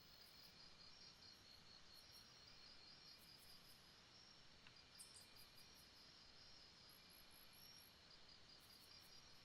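Faint jungle ambience: a steady chorus of insects trilling in high-pitched, evenly pulsing chirps over a soft hiss, with a brief run of higher chirps about seven seconds in.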